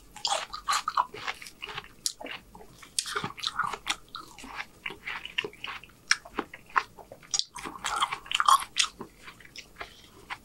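A person chewing a forkful of breakfast food close to the microphone: a steady run of short wet smacks and clicks of the mouth and teeth.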